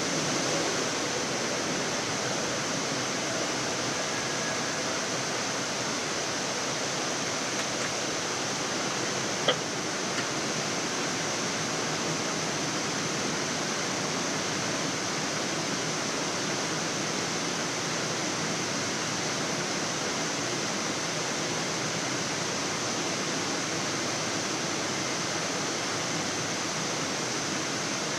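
Steady rushing hiss of airflow and ventilation on a Boeing 787 flight deck during the approach, with one sharp click about nine seconds in.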